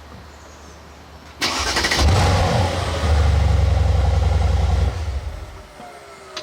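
Mercedes-AMG C63 S V8 engine started: it catches with a loud burst about a second and a half in, runs with a steady low rumble for about three seconds, then is switched off.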